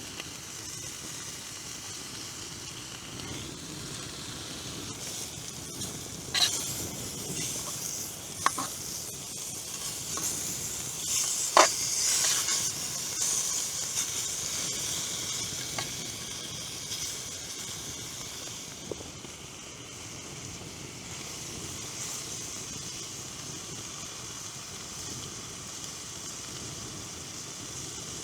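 Food sizzling in a pan over a campfire: a steady hiss with a few sharp pops, the loudest about twelve seconds in.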